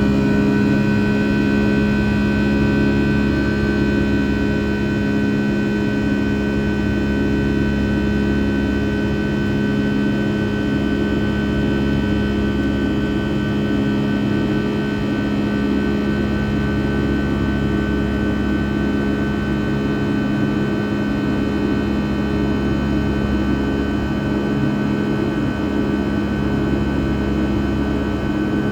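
Rolls-Royce RB211-535E4B turbofans of a Boeing 757-200 heard from inside the cabin: a steady, loud drone made of several held tones over a low rumble.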